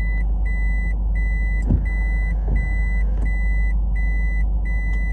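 A vehicle's reversing warning beeper sounding a steady, even beep about once every 0.7 s over an idling engine, as the camper van backs into a parking space. There are a couple of small knocks partway through.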